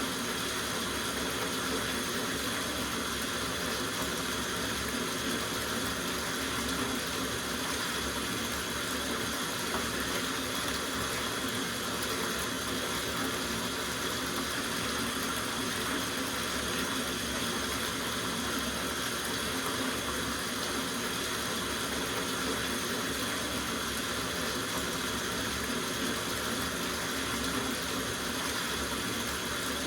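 Tap water running steadily into a soaking bathtub, an even rushing with no change.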